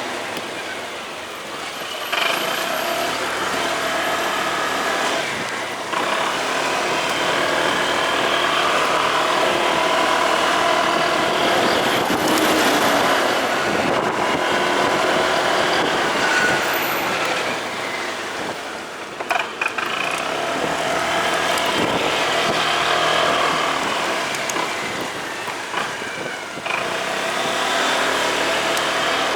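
Motorcycle running on the road, its engine steady under road and traffic noise, easing off briefly a few times.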